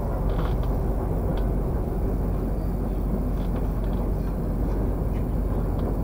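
Steady low rumble of a moving passenger train carriage heard from inside the coach, with a few faint high clicks and squeaks from the car.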